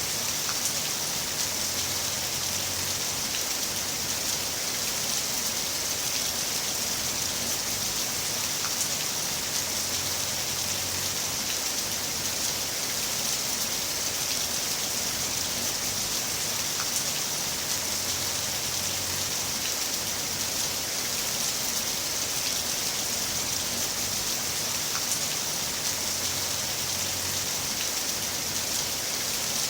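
Heavy rain falling steadily: a dense, even hiss of drops with faint scattered patters.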